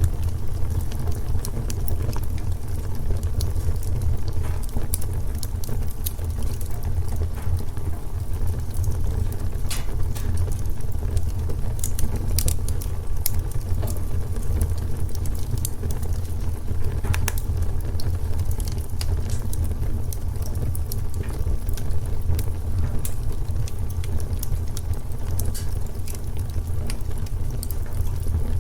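Wood fire in a fireplace crackling: a steady low rumble of the flames with irregular sharp pops and snaps, a few louder ones about halfway through.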